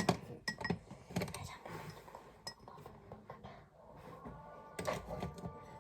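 Scattered light clinks and taps of small hard objects being handled on a table.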